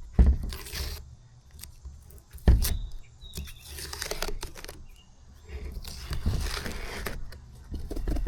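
Cloth being rubbed over a plastic tail light lens to work in headlight restorer polishing compound, in a few scratchy wiping strokes. Two low thumps from handling, about a quarter-second and two and a half seconds in.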